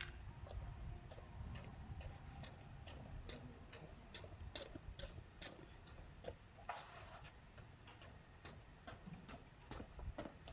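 Faint steady high-pitched trill of insects, crickets, with sharp clicks at a fairly even two to three a second and a low rumble underneath.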